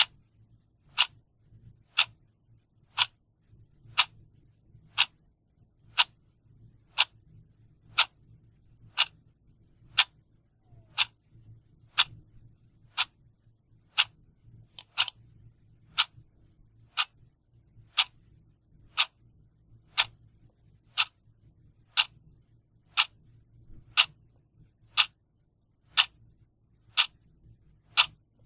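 Clock ticking once a second with sharp, evenly spaced ticks.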